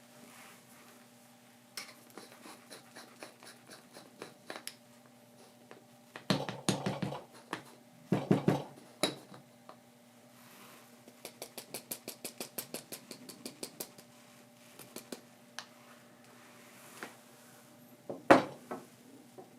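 Small metal coffee-making gear being handled: light clicks at about two a second, two louder clattering knocks a third of the way in, a quick even run of about a dozen rapid clicks past the middle, and one sharp knock near the end.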